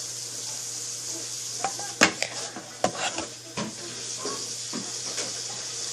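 Small hard objects being handled, giving a scatter of light clicks and knocks over a steady hiss, the loudest knock about two seconds in.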